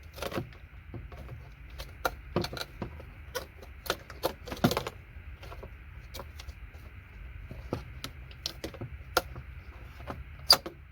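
Irregular clicks and light metallic clinks of small pieces of electronic scrap being pried apart and dropped, over a steady low hum.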